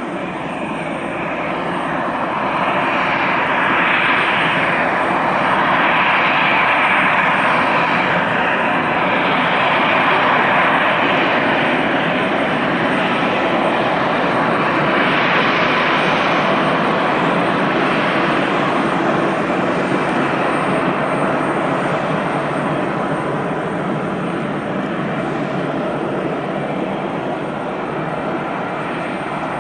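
Jet airliner's engines at takeoff power: a steady, loud noise that swells over the first few seconds, peaks again about halfway, then slowly fades.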